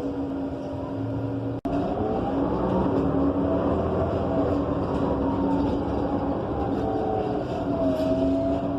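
Inside a Gillig BRT Plus transit bus under way: its Cummins Westport ISL G natural-gas engine and Allison automatic transmission run with a steady whine over road rumble, the whine drifting slightly in pitch. About a second and a half in, the sound cuts out for an instant.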